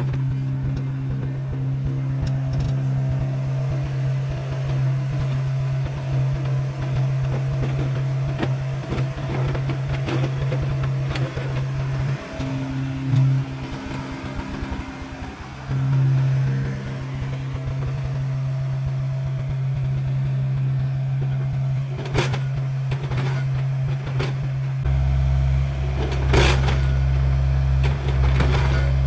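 SANY SY60C mini excavator's diesel engine running steadily under load while digging, with scattered scrapes and several sharp knocks of the bucket against soil and stones near the end.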